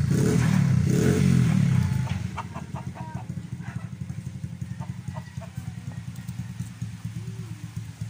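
A motorcycle engine running, louder for about the first two seconds and then settling into a steady idle. Hens cluck faintly now and then.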